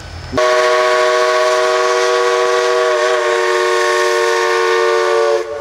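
Southern 2-8-2 Mikado No. 4501's chime steam whistle blowing one long blast of about five seconds, several tones sounding together over a hiss of steam. It starts suddenly about half a second in and cuts off near the end.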